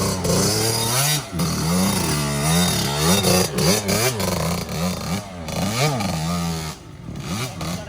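Small dirt bike engines revving up and down over and over, the pitch rising and falling with the throttle. The engines ease off and get quieter near the end.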